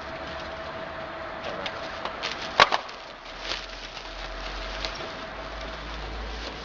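Knocks and clatter of things being handled and pressed into place, with one sharp double knock about two and a half seconds in and lighter taps around it.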